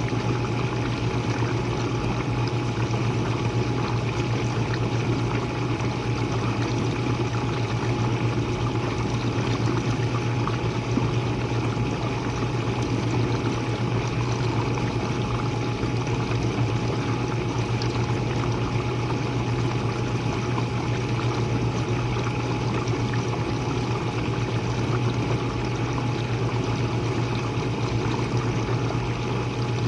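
Jenn-Air dishwasher running mid-cycle, heard from the bottom of the machine: a steady motor hum with a faint steady whine over the rush of water spraying and pouring inside the tub.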